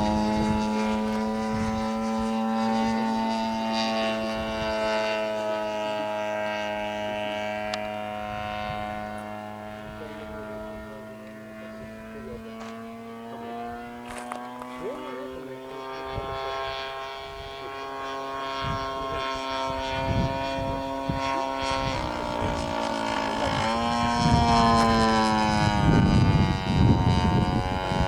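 MVVS 45 two-stroke glow engine of a radio-controlled Hurricane model airplane running at steady high revs in flight, its propeller note fading as the plane moves away and growing louder again. The pitch slides slightly as it passes and steps down twice in the last third.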